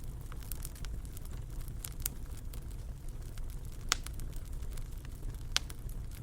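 Wood fire crackling in a fireplace: a steady stream of small snaps over a low rumble, with two sharper pops, one about four seconds in and another about a second and a half later.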